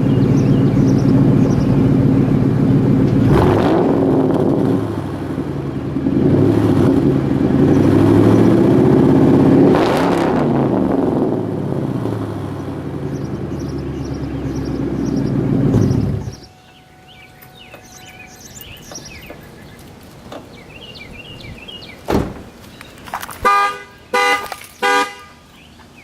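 2001 Ford Mustang GT's 4.6-litre V8, running through a muffler delete, idling and revved three times, each rev rising and falling in pitch, then shut off. After a quiet stretch comes a single thump, then a few short car horn toots near the end.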